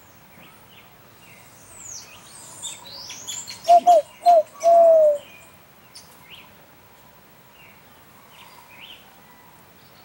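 Birds calling: high, quick chirps and rising twitters. In the middle come four clear, loud, low notes, three short and then a longer falling one, followed by a few scattered faint chirps.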